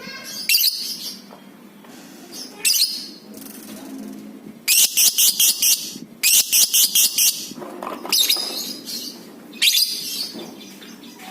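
Lovebird calling with shrill, high-pitched notes. Around the middle it gives two quick runs of sharp repeated calls, about five a second, with single calls before and after.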